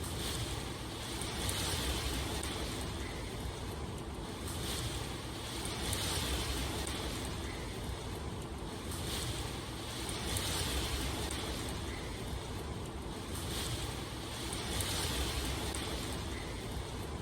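Steady rushing water noise, like rain or surf, swelling and easing about every two seconds.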